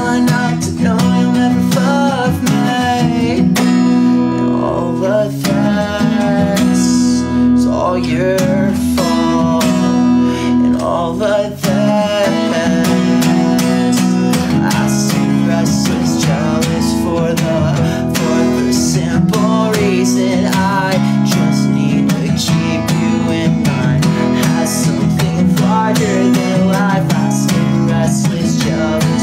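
Acoustic guitar being strummed, a steady chord pattern played throughout.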